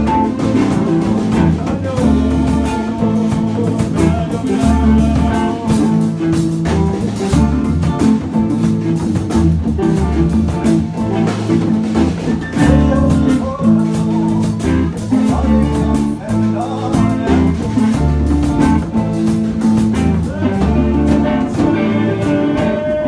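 Guitar improvising over a backing of bass and drums, played continuously with a steady beat.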